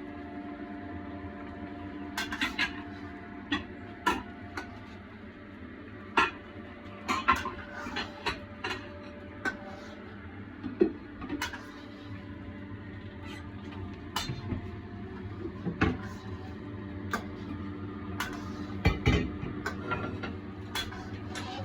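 Dishes and kitchen utensils clinking and knocking in irregular sharp taps, over a steady hum.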